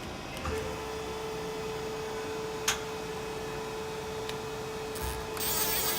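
Daewoo Puma 8S CNC lathe running: a steady whine starts about half a second in, with one sharp click near the middle and a loud burst of hiss near the end.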